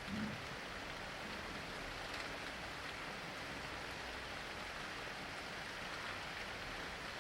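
Steady rain falling, an even hiss without change, with a brief low rumble just after the start.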